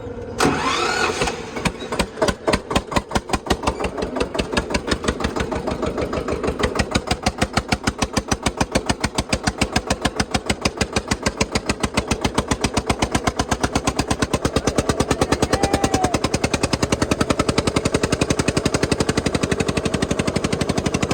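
Tractor diesel engine running, its loud exhaust beats evenly spaced and gradually quickening as the revs climb. A short sharp sound, rising in pitch, comes just before the beats start.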